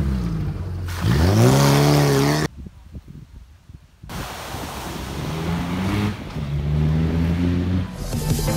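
Off-road 4x4's engine revving up about a second in, its pitch rising, then cut off abruptly. After a brief quieter gap, an engine runs again, its pitch slowly climbing.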